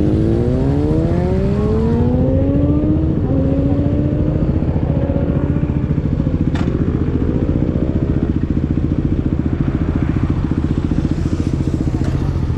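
Yamaha YZF-R6 inline-four with a full-system exhaust accelerating: its pitch rises through the first few seconds, holds briefly, climbs again around the middle, then settles into a steady low run. A single sharp click comes about halfway through.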